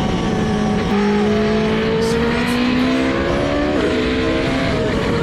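GP2 single-seater race car's V8 engine pulling hard under acceleration. Its pitch drops with a gear change about a second in, climbs steadily for nearly three seconds, and drops again near the end.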